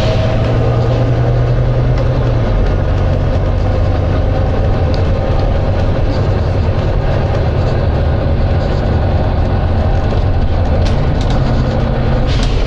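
Volvo B9TL double-decker bus's six-cylinder diesel engine running steadily, a deep drone, with a short hiss of air near the end.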